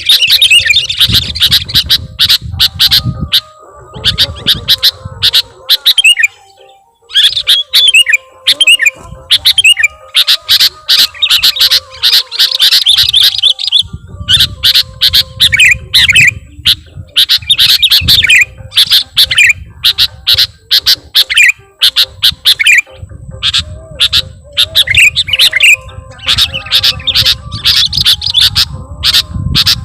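Sooty-headed bulbuls (kutilang) calling in a dense run of rapid chattering notes, with a brief pause about six seconds in and a low rumble under parts of it. This is a lure call used to draw in wild bulbuls.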